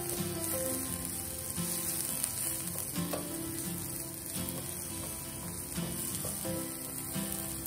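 Chopped aromatics and dried shrimps sizzling steadily in hot oil in a nonstick pan, being sautéed until fragrant. A slotted spatula stirs them, scraping and tapping the pan now and then.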